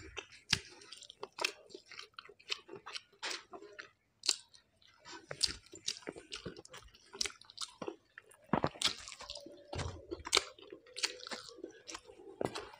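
Close-miked chewing of rice and curry eaten by hand: wet mouth sounds and many small clicks, with a brief moment of silence about four seconds in.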